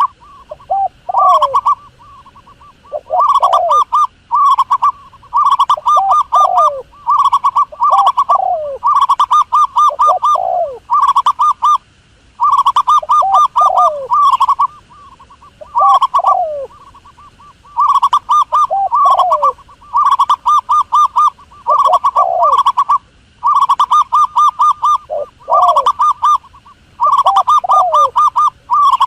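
Dove cooing in repeated phrases about every two seconds: each a fast run of short pulsed coos followed by one or two falling notes.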